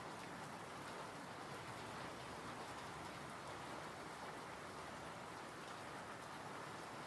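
Calm, steady rain falling, an even hiss of drops with no change in strength.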